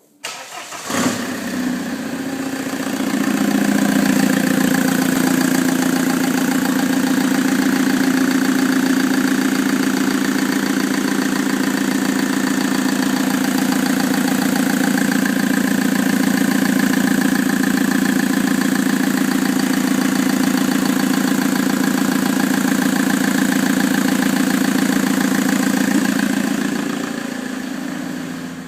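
Vauxhall Vectra 2.0 DTI four-cylinder turbodiesel starting about a second in and then idling steadily, running as a test that the engine works. The sound falls away near the end.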